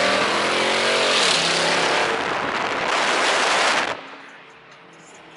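Dodge Challenger R/T's V8 engine running alongside at road speed, its pitch dipping slightly, then a loud rush of engine and wind noise. The noise cuts off suddenly about four seconds in, leaving quieter road noise inside the car.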